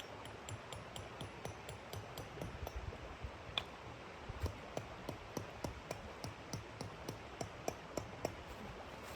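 A run of light, sharp clicks at a fairly even pace of about three to four a second over a steady low hiss, a few of them louder near the middle.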